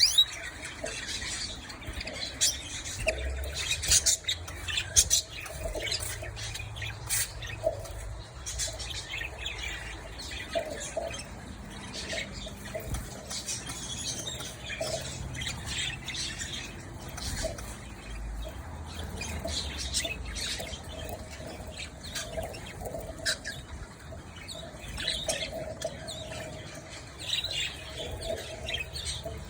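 Pet canaries calling and moving about: scattered short chirps and squawks with wing flutters.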